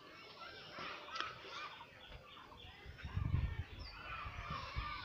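Birds chirping and calling in many short rising and falling notes, with a low rumbling thump about three seconds in.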